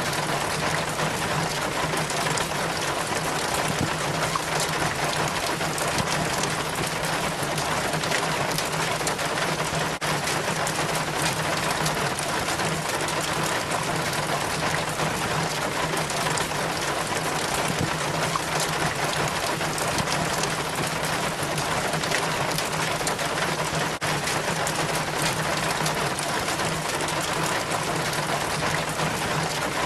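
Rainwater trickling and splashing down a rain chain from the gutter in steady rain: a constant, even patter with a low steady hum underneath.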